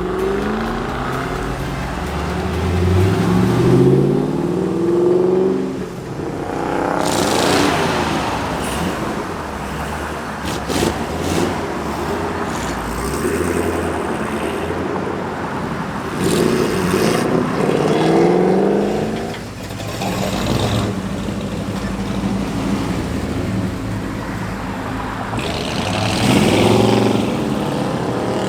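Car and truck engines revving and accelerating away one after another, the engine note rising several times, with a burst of louder exhaust noise.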